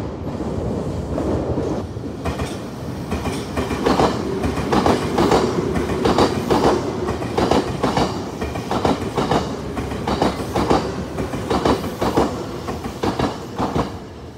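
Semboku Rapid Railway 5000 series electric train passing close by. Its wheels clack over the rail joints in a long run of sharp, often paired beats, about two a second, over a steady rumble.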